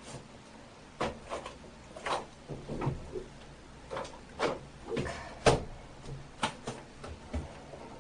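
Irregular knocks and clacks of things being handled and set down in a small room, about a dozen over several seconds, the loudest about five and a half seconds in.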